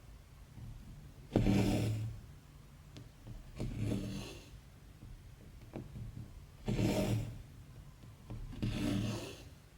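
Embroidery thread being pulled through stamped cross-stitch fabric with a rasping, rubbing sound, four strokes a couple of seconds apart, with faint ticks between them from the needle.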